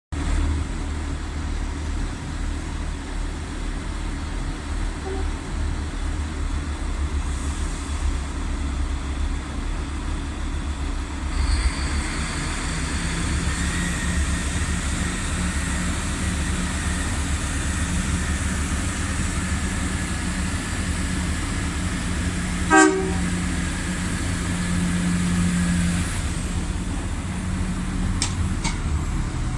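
Irish Rail 22000 Class diesel multiple unit's diesel engines running with a steady low rumble, rising in note and level about a third of the way in as the train pulls away. About three-quarters of the way through there is one short horn toot.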